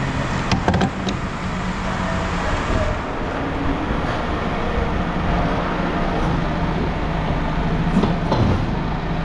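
Heavy scrapyard machinery running steadily with an engine rumble, with short metal knocks just under a second in and again near the end as a large outboard motor is lifted.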